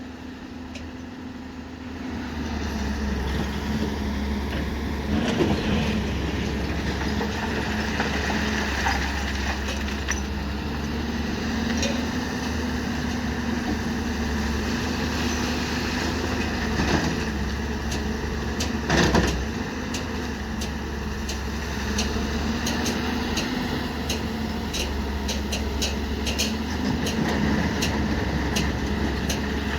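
A large engine running steadily, growing louder about two seconds in, with scattered knocks and clicks over it.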